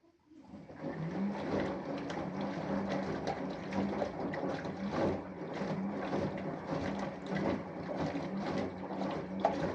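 Samsung Eco Bubble 6.5 kg washing machine with an inverter motor washing: water sloshing and splashing in the turning drum over a steady low motor hum, starting about half a second in.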